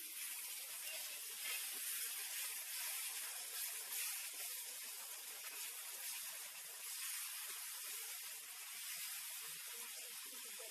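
Chopped tomatoes frying in hot oil and onion-spice masala in a kadhai, giving a steady sizzle as they are stirred.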